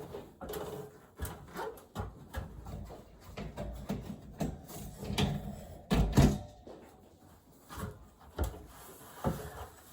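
Irregular knocks, clicks and clatter of things being handled, with a pair of louder thumps about six seconds in.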